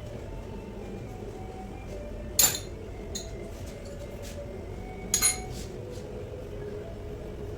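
Two sharp metallic clinks with a short ring, about three seconds apart, as steel gearbox parts or tools are handled and set down during a manual transmission overhaul.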